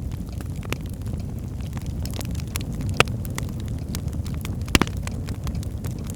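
Birch logs burning in a fireplace: a steady low rumble of flames with scattered sharp crackles and pops, two louder pops about three seconds and just under five seconds in.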